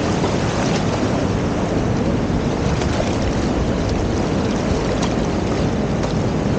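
Strong sea wind buffeting the microphone over the rush of waves on the beach: a loud, steady noise, heaviest in the low end.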